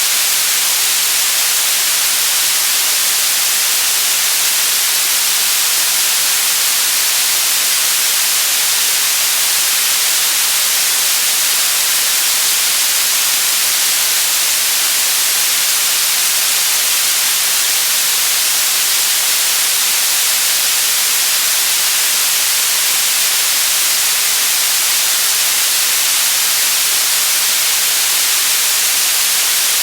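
Steady electronic white noise: a constant, even hiss with no changes, strongest in the treble.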